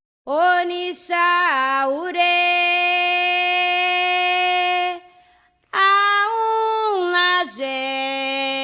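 A single voice singing unaccompanied in two long phrases of held notes, a solo call in a Candomblé chant with the drums silent. The first phrase dips and rises back before holding. The second starts higher and then steps down to a lower held note after a short pause about five seconds in.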